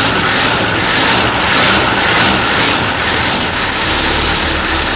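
Engine running rough on three cylinders, one misfiring because of a bad spark plug. For the first three seconds or so a rhythmic hissing, about two pulses a second, rides over it.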